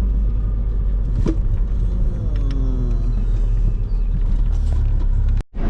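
Car engine and road rumble inside the cabin while driving through a turn, with a single knock about a second in and a falling engine tone between two and three seconds in. The sound cuts out completely for a moment near the end.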